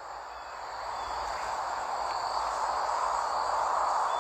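Steady outdoor background noise with insects chirring, slowly growing a little louder.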